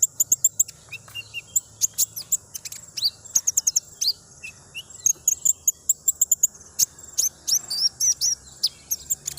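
Wild sunbird (kolibri ninja) singing a rapid, continuous run of thin, high chirps and twitters.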